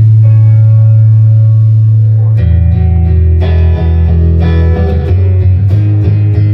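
Loud amplified electric guitar and bass guitar playing long held notes, the chord changing every second or so.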